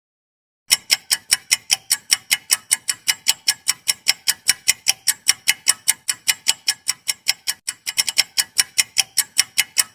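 Clock-tick sound effect ticking rapidly and evenly, about five ticks a second, starting abruptly just under a second in: a quiz countdown timer running while the answer is awaited.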